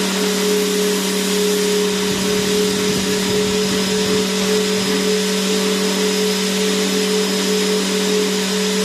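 Vacuum cleaner motor running steadily: a constant rushing hiss with a steady motor hum under it.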